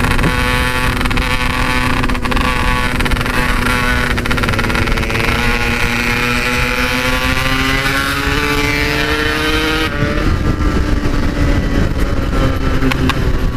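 Yamaha RX-King's 135cc two-stroke single-cylinder engine with an aftermarket 'standart belek' Packing Power exhaust, pulling the bike along the road. Its pitch climbs slowly for several seconds, then drops suddenly about ten seconds in, over a steady low rumble.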